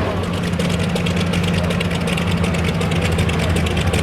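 Modified pulling tractor engine running at a steady speed, with a fast, dense crackle of firing pulses over a steady low note.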